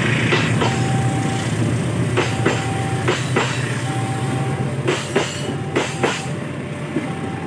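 Passing train, its wheels clicking over rail joints in pairs and groups, over a low running hum that fades through the first half. A short steady tone repeats about every second and a half.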